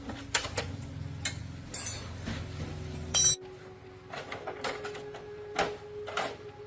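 Metal clinking and tapping, as of tools and small metal parts being handled on a hard surface, with one loud ringing clink about three seconds in. A low hum stops abruptly at the same moment.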